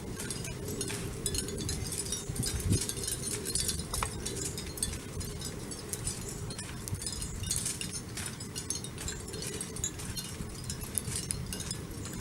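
Outdoor ambience: a steady low rumble with many small, quick high ticks and clinks scattered throughout.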